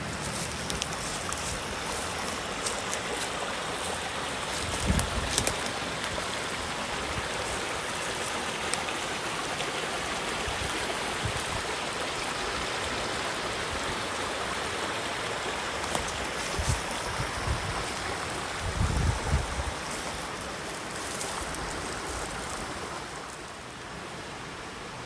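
Stream water running steadily, with a few soft thumps now and then.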